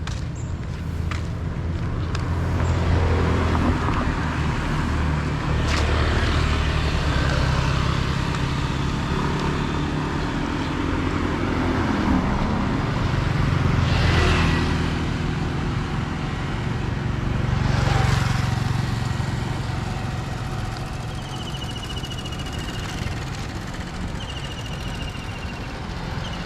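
City street traffic: car and motorcycle engines running as vehicles pass one after another, the loudest passes about a third and two thirds of the way through. A few short high squeaks near the end.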